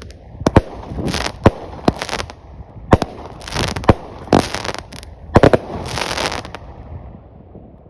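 A small 200-gram consumer firework cake firing its shots: a run of about eight sharp bangs at uneven intervals, several trailed by a short crackling hiss of the breaks. The volley dies away about seven seconds in.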